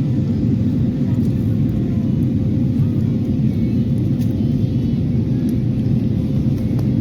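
Aircraft cabin noise: a loud, steady low rumble with a constant hum running through it.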